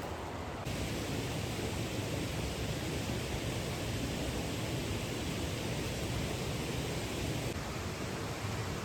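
Mountain stream rushing over rocks: a steady, even rush of water that gets louder a little under a second in.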